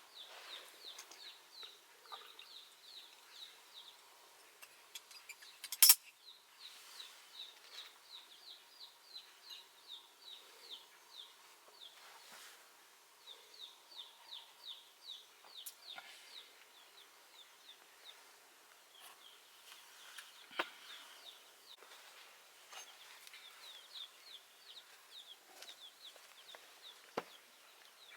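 Birds chirping: short, high, falling notes repeated a few times a second in runs, with a sharp knock about six seconds in and a couple of fainter clicks later.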